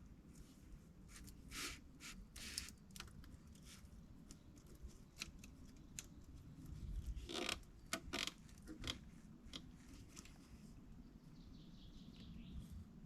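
Faint scattered clicks, knocks and creaks, with a louder cluster of knocks about halfway through.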